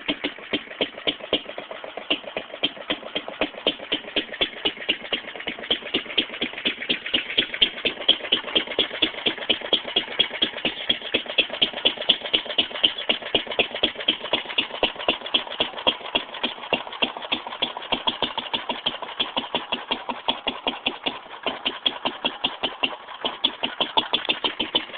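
Fairbanks-Morse Z Style D 1½ hp hit-and-miss engine running steadily: a rapid, even clatter of beats, several a second, some louder than others.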